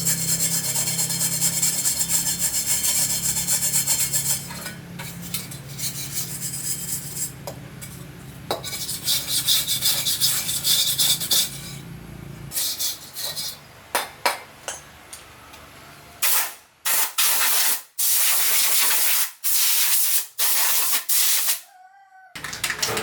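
Abrasive rubbing and scraping during parts work, over a steady low motor hum, for about the first twelve seconds. Then the hum stops, and about half a dozen short, sharp bursts of noise follow with brief gaps between them.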